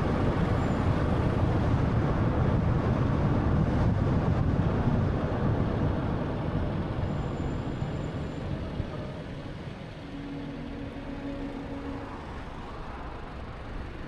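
Road and tyre noise with engine hum from a moving 2013 Honda Fit, loud and steady for about five seconds, then gradually dying down. A short steady low hum sounds briefly a little after ten seconds.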